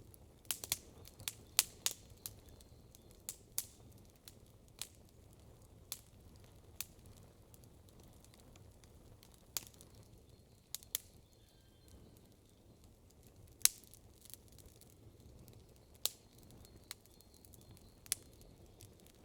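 Campfire wood fire burning, with irregular sharp pops and snaps over a low steady hiss: a quick cluster of cracks in the first two seconds, then scattered single pops, the loudest about two-thirds of the way through.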